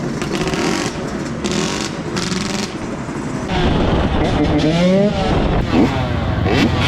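Dirt bike engines revving. The sound grows louder about halfway through, with several quick rises and falls in engine pitch.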